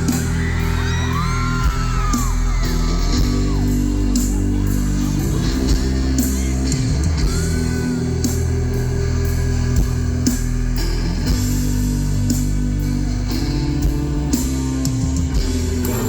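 Rock band playing live: electric guitars over drums keeping a steady beat.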